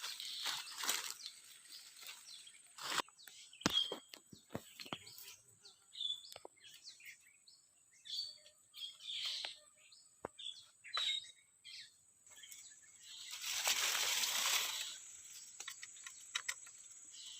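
Crackling and rustling in dry scrub, with several short, high bird chirps and a longer rustle near the end, over a faint, steady, high-pitched whine.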